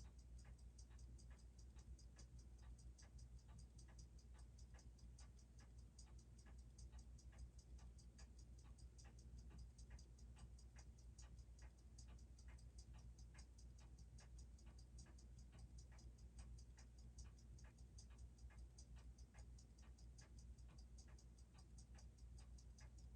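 Faint, rapid, even ticking of a freshly serviced Seiko 6R15 automatic watch movement (21,600 beats an hour), picked up while it runs on a timegrapher, over a low steady hum.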